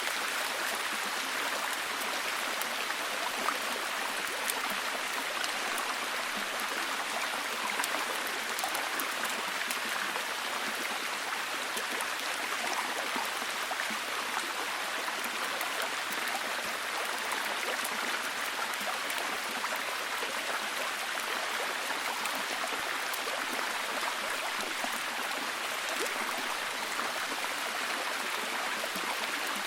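Steady heavy rain falling, an even hiss with many small scattered drop ticks.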